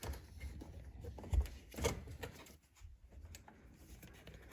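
Hands working plastic electrical connectors and loose console trim inside a car, with scattered small clicks, knocks and rustles; a dull thump about a second and a half in is the loudest.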